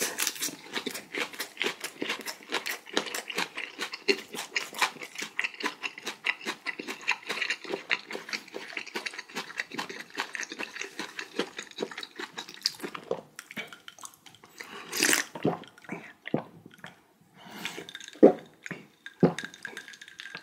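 Close-miked chewing of a perilla-leaf wrap of flounder sashimi: steady wet chews, several a second, thinning out in the last several seconds into a few louder, separate mouth sounds.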